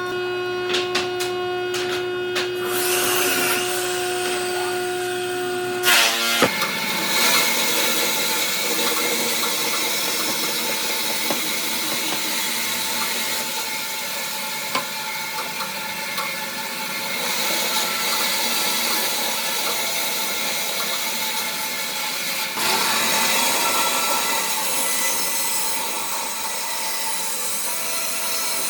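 A power tool working wood. For the first few seconds it runs with a steady whine; about six seconds in, the pitch drops and the sound turns to a rough, continuous grinding as the tool cuts into the wood.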